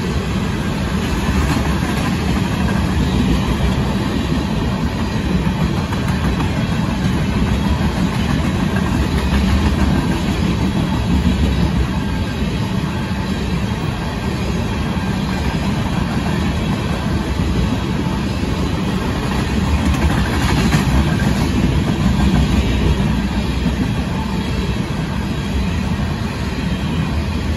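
Tank cars of a Union Pacific freight train rolling past: a steady rumble of steel wheels on rail with clacks at the rail joints, swelling a little about two-thirds of the way through.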